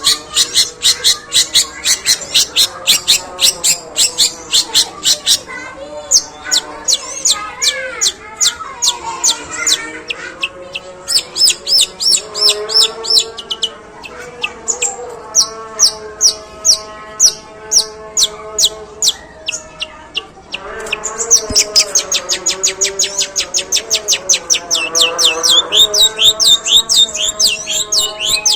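Long-tailed shrike (pentet) singing long, rough rapid-fire volleys of sharp high chips, about five a second, in the sparrow-like 'gereja' style, with a few brief breaks between runs and a harsher, lower chatter underneath.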